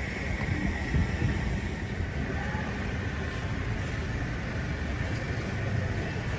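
Steady low rumble of a running vehicle engine or road traffic, with a faint steady high tone over it.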